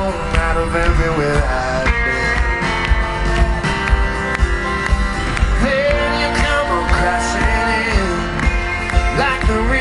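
Live band playing a pop-rock song, with guitar, bass and drums and a lead voice singing over them.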